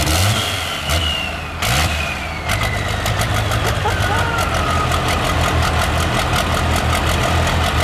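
Diesel truck engine running with a loud, mean-sounding exhaust note. A turbo whistle falls in pitch over the first few seconds as the engine settles, then it idles steadily with a rapid, even pulsing.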